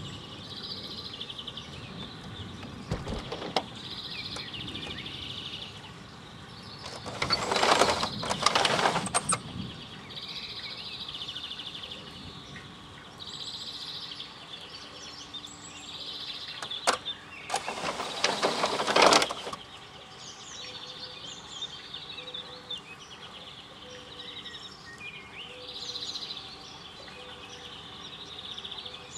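Birds chirping in short repeated phrases over steady outdoor background noise, broken twice by a loud burst of noise about two seconds long, once about a quarter of the way in and again past the middle.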